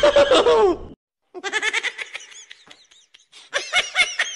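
A voice in the first second, then after a brief cut high-pitched laughter in quick, clipped bursts, coming about four or five a second near the end.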